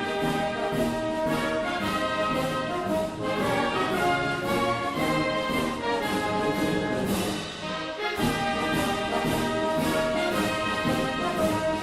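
Orchestral music led by brass, with a steady beat and a brief break in the phrase about eight seconds in.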